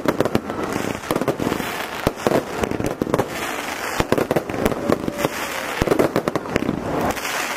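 Aerial fireworks going off in quick succession: a dense, unbroken string of sharp bangs and crackles.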